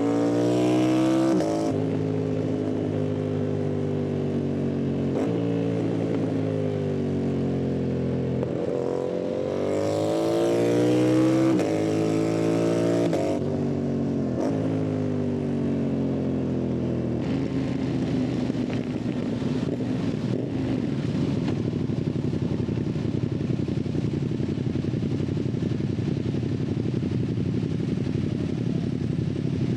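Yamaha MT-07's parallel-twin engine and exhaust under hard acceleration: the revs climb and drop through several gear changes in the first half, then settle to a steadier, lower running note for the rest.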